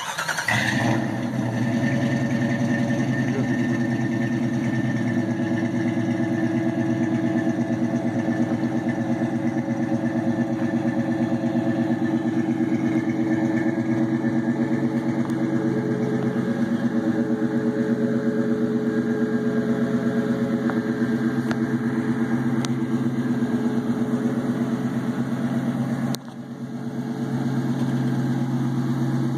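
1996 Jeep Grand Cherokee's V8 engine comes up with a short flare right at the start, then runs at a steady idle through its exhaust with an even pulsing beat. The sound drops briefly about 26 seconds in and then comes back.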